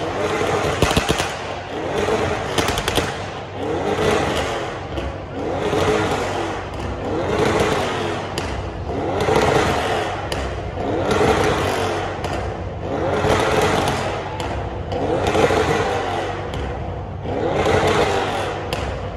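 A car engine revved over and over, about once every two seconds, its pitch rising and falling with each blip of the throttle, with a burst of sharp exhaust crackles in the first few seconds.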